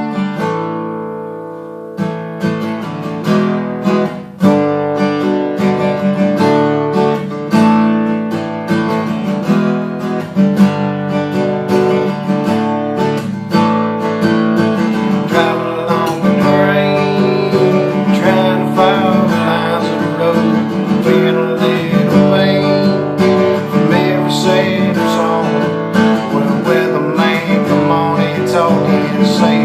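Acoustic guitar playing a song with strummed chords. The chords ring down in the first two seconds, then the strumming picks up again and runs on steadily.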